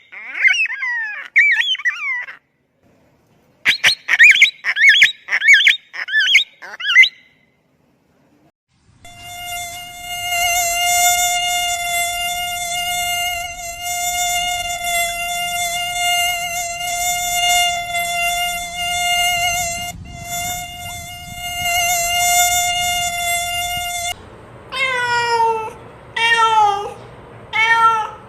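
A run of animal sounds: short bursts of bird chirping, then a steady high-pitched insect wing buzz lasting about fifteen seconds with one brief break, then a cat meowing several times near the end, each meow falling in pitch.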